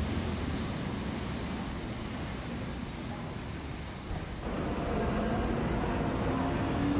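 Berner Oberland-Bahn metre-gauge railway coaches rolling slowly past, a steady low rumble. About four seconds in the sound jumps louder and faint whining tones appear, one rising near the end.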